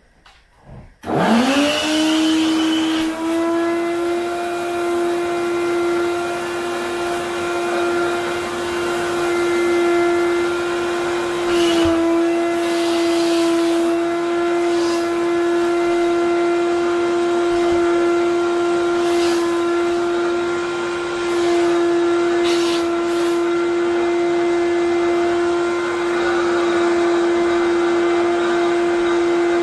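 Wet vacuum cleaner switched on about a second in, its motor spinning up quickly to a steady high whine that runs on, with a few brief rushes of air or scraping along the way.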